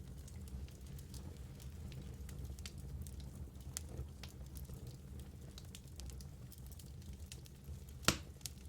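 Wood fire burning in a fireplace: a steady low rumble with scattered small crackles, and one loud pop near the end.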